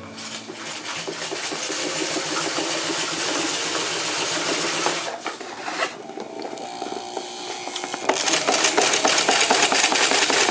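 Sewing machine stitching Dacron reinforcement strips onto a genoa's leech, running in stretches with a short break about halfway through and running louder near the end.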